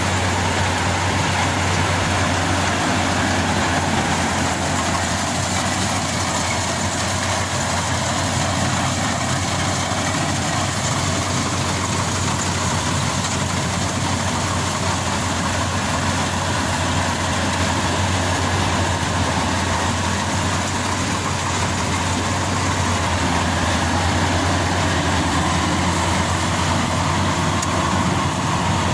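Maxxi Bimo Xtreme combine harvester's diesel engine running steadily with a constant low hum.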